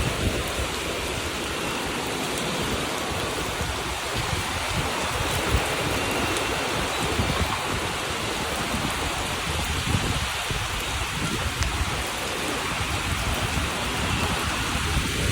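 Heavy rain pouring down in strong wind, a steady dense hiss with gusty low rumbling from wind on the microphone.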